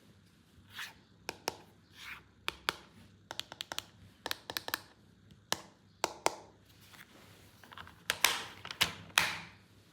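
Hands handling plastic toys and packaging: a run of sharp clicks and taps, with a few short rustling swishes near the end.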